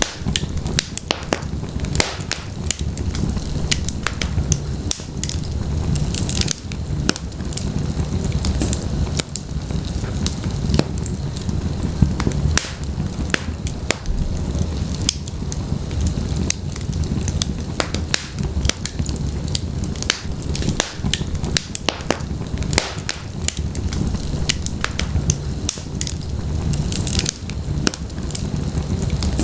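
Wood fire of burning logs in a fireplace, crackling and popping irregularly over a steady low rumble of flame.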